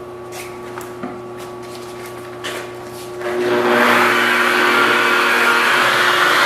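Car polishing buffer with a soft black foam pad and swirl mark remover: a low steady hum with a few light clicks, then about three seconds in it gets much louder, a steady whirring as the pad works the paint.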